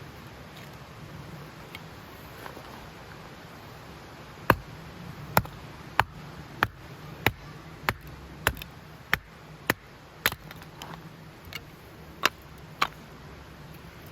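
About a dozen sharp knocks at a steady pace, roughly one every 0.6 seconds, starting about four and a half seconds in and stopping shortly before the end.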